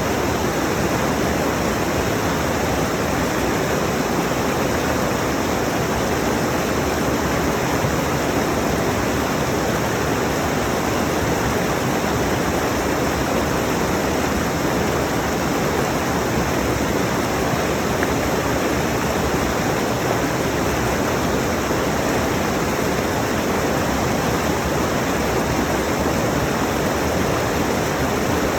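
Rushing mountain stream: water pouring steadily over rocks, close to the microphone, a dense even rush with no breaks.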